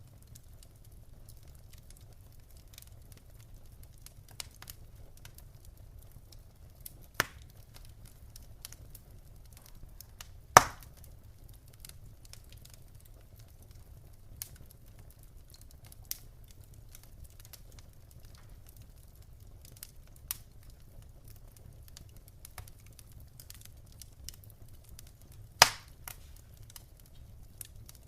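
Wood fire in a fireplace crackling: scattered small ticks and snaps over a low steady rumble, with three louder pops, the loudest about ten seconds in and another near the end.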